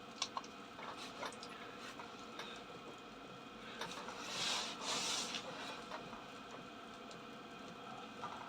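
Chinese diesel parking heater running with a steady hum, a few light clicks in the first couple of seconds, and two short hissing bursts around the middle.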